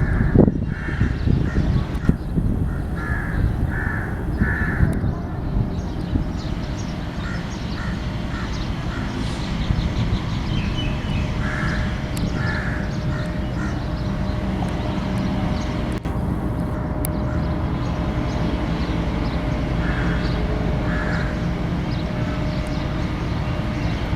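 A GE diesel-electric locomotive and its train of empty coal wagons rumbling steadily as they pull out, with a crow cawing in short runs of two or three calls over it.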